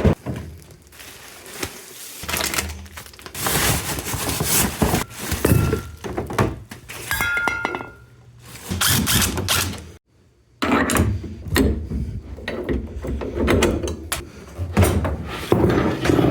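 A refrigerator being manhandled up stairs, with repeated thuds and scraping as it knocks against the steps and walls. A short squeak comes about halfway through. The sound cuts out briefly just after ten seconds, then the knocking and scraping resume.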